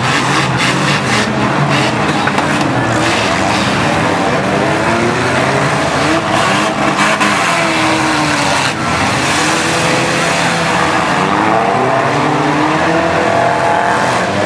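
Several demolition derby cars' engines revving hard together, pitches rising and falling as the drivers accelerate and back off, with sharp bangs of cars ramming each other in the first few seconds and again a little past the middle.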